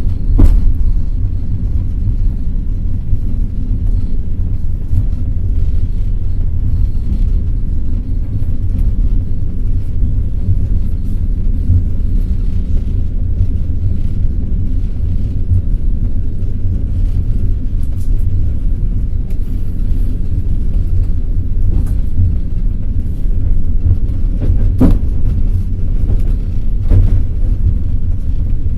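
Passenger train's wheels running on the rails, a steady low rumble, with a few sharp clicks late on.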